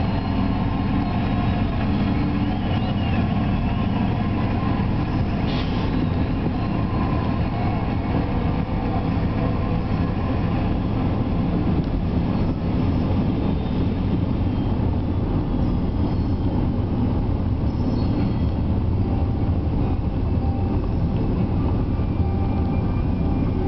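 Freight diesel locomotive running alongside, a steady low rumble heard from inside a moving car's cabin, mixed with the car's own engine and road noise.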